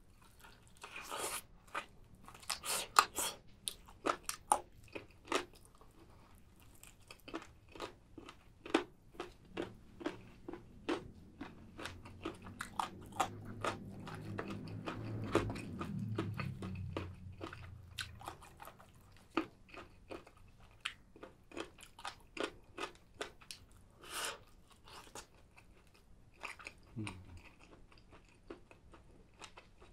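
Close-miked biting and chewing of crispy Goobne Volcano spicy chicken: a run of irregular sharp crunches and wet chewing.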